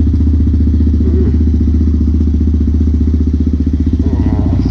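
Honda Grom's 125 cc single-cylinder engine idling steadily while it warms up, an even low-pitched running note with no revving.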